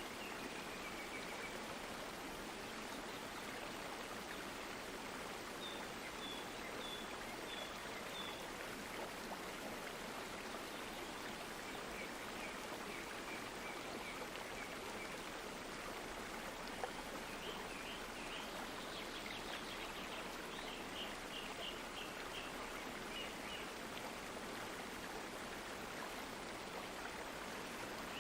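Water of a stream running steadily. Several runs of short, high chirps sound over it, about six seconds in, again around twelve seconds, and in a longer run in the second half.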